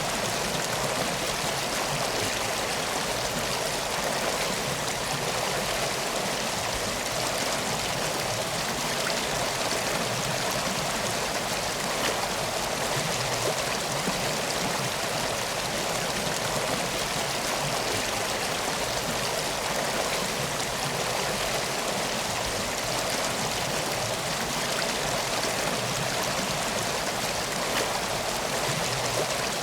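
Steady flowing river water, an even rushing and trickling that neither builds nor fades.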